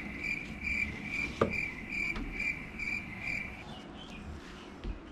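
An insect, like a cricket, chirping in a steady high-pitched rhythm of about two and a half chirps a second, stopping about three and a half seconds in. A single sharp click sounds about a second and a half in.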